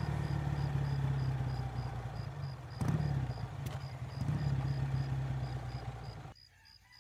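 Motorcycle engine idling steadily, swelling briefly twice, then cutting off suddenly near the end.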